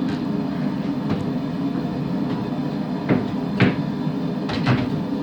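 A forge running with a steady low rush, with a few sharp, irregular knocks of metal being handled: two about three seconds in and two more near the end.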